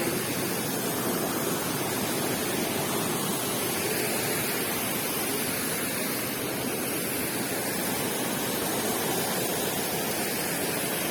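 Steady rushing water, an even noise that holds at one level throughout.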